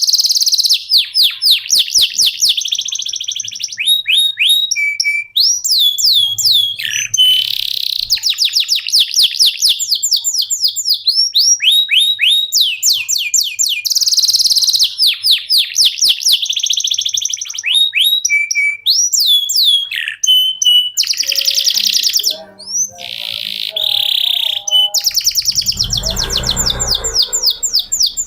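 A male domestic canary singing a long continuous song: rapid trills of repeated falling whistles, switching from one trilled phrase to the next every second or two. A brief low rumble sounds under the song near the end.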